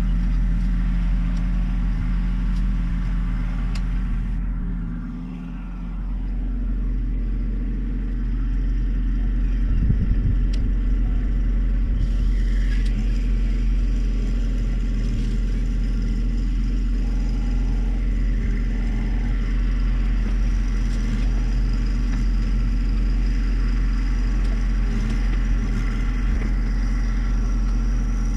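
John Deere 1025R sub-compact tractor's three-cylinder diesel engine running steadily, with a brief drop in level about five seconds in.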